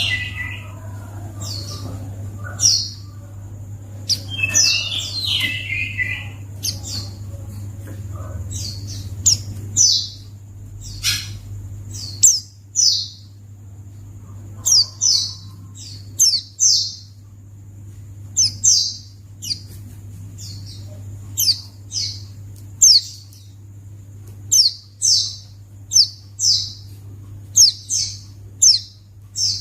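White-eye (pleci) calling: many short, high, downward-sweeping chirps, often in quick groups of two or three, with a steady low hum underneath.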